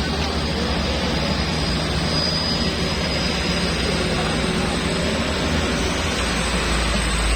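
Heavy truck engine running under load, a steady low drone mixed with road and wind noise; the deep rumble swells about six seconds in.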